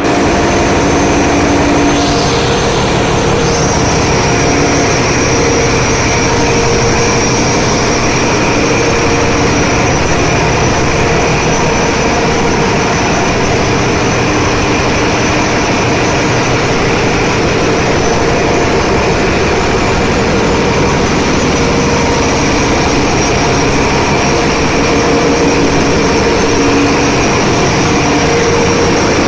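Ship's engine-room machinery running: a loud, unbroken din with a few steady whining tones over a dense rumble.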